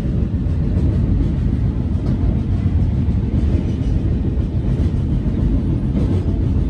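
Steady loud rumble of a moving passenger train heard from inside the coach: wheels running on the track, even and unbroken.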